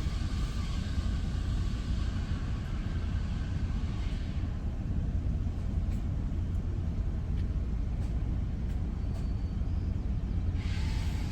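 Road and engine rumble inside a moving vehicle, steady and low. A higher hiss of tyre and passing-traffic noise is present at the start, fades about four seconds in, and comes back near the end.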